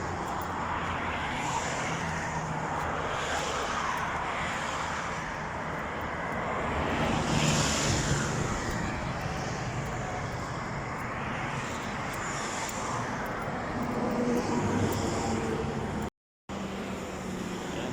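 Road traffic passing: a steady rush of engine and tyre noise that swells as vehicles go by, once about halfway through and again near the end.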